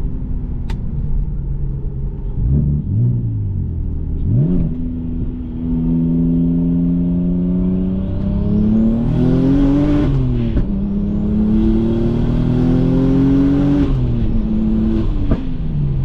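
Single-turbo BMW 135i's N54 inline-six accelerating under about 20 psi of boost, its pitch climbing through the pulls and dropping at gear changes about ten and fourteen seconds in. A faint high whine rises along with each pull.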